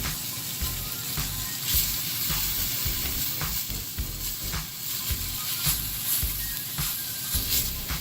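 Sun-dried tomatoes and minced garlic sautéing in olive oil in a skillet: a steady sizzle, with scattered clicks of a utensil stirring them in the pan.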